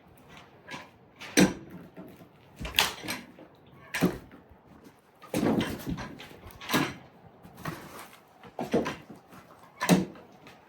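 A series of separate knocks and clunks at uneven intervals, roughly one a second, with a louder one about a second and a half in and another near the end.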